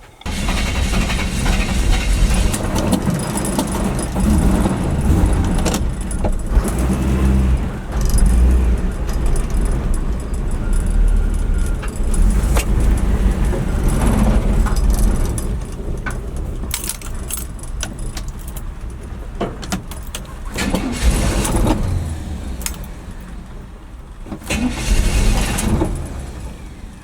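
A carbureted pickup truck's engine catches suddenly and runs, loud and unsteady, on gasoline poured into the carburetor, since the fuel system is not feeding it; loose parts rattle and clatter throughout. The engine sound weakens after about sixteen seconds.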